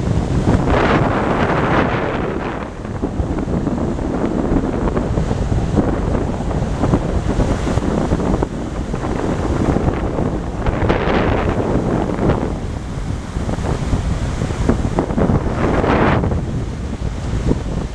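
Wind buffeting the microphone over the rushing of sea waves, with louder surges of water about a second in, around eleven seconds and near the end.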